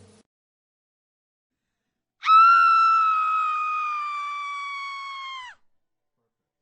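A single long, high-pitched scream sound effect. It starts suddenly about two seconds in, is held for about three seconds while its pitch sinks slightly, then cuts off abruptly.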